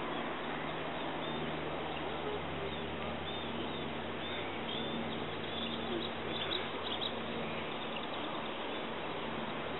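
Birds chirping faintly over a steady outdoor background hiss, with a cluster of short, high chirps from a few seconds in until past the middle.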